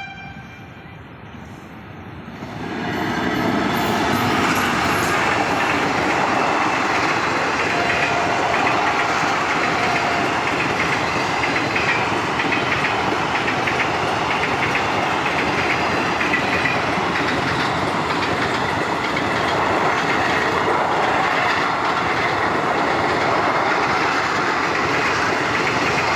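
Indian Railways passenger train of coaches passing close by: a steady, loud rumble of wheels on the rails with clickety-clack over the rail joints, rising in about two and a half seconds in after a short quieter stretch.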